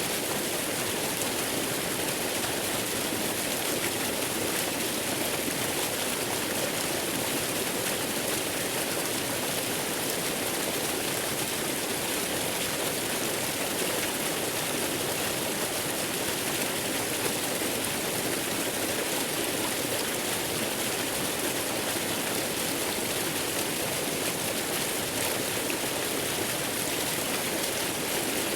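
Waterfall's steady rush of falling water, even and unchanging throughout.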